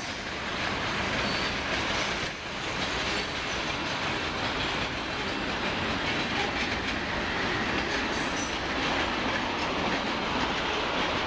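Freight train cars rolling past on the rails: a steady rumble and clatter of wheels, with a few brief faint high wheel squeals.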